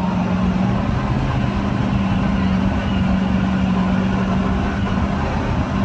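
A motor running steadily, with a constant low hum over a dense mechanical din.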